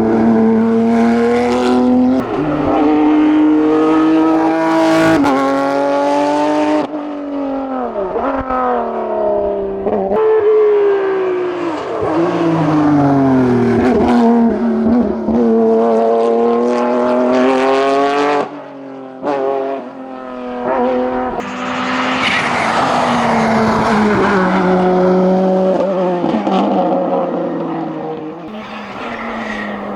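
Race car engine at full throttle on a hillclimb, revving up, dropping sharply at gear changes and throttle lifts, then pulling up again several times.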